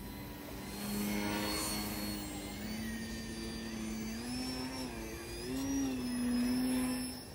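Electric motor and propeller of an E-flite Eratix flat foam RC plane in flight: a steady whine whose pitch steps up and down with throttle changes. It grows louder about a second in and again near the end.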